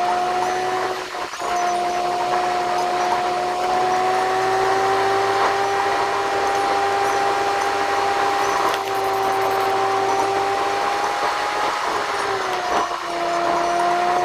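Car engine and drivetrain running under steady load with a whine that rises a little in pitch over the first few seconds, holds, then dips briefly near the end, over steady road noise.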